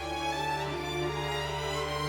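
Background music: slow, sustained strings, led by violin over a held bass.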